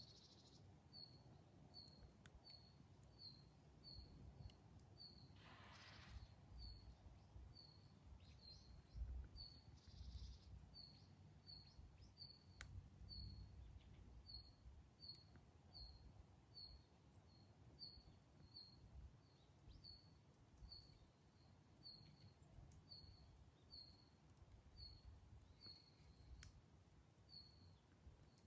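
Faint high chirps repeated evenly, about two a second, over a low rumble, with a few faint sharp crackles from the campfire.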